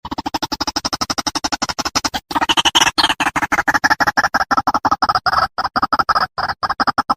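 White-breasted waterhen calling: a rapid stuttering series of harsh repeated notes, about eight to ten a second, with a brief break about two seconds in.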